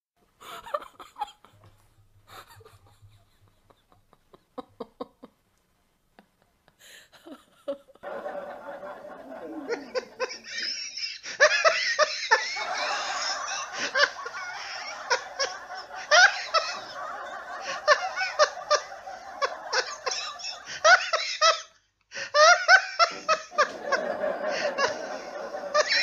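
A man laughing. Scattered short chuckles and snickers at first, then about eight seconds in it builds into long, hearty, continuous laughter, which breaks off briefly near the end and starts again.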